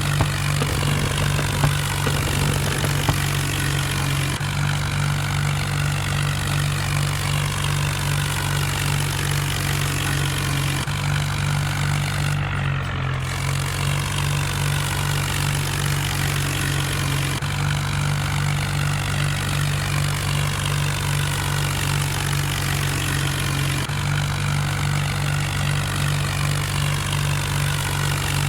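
Tractor engine running steadily at idle, a constant low hum that shifts slightly every few seconds.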